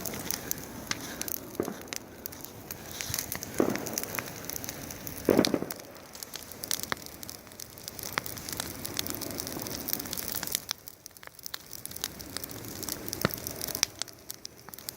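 Bonfire crackling: many sharp pops and snaps over a steady rushing hiss, with two louder, duller knocks about four and five and a half seconds in.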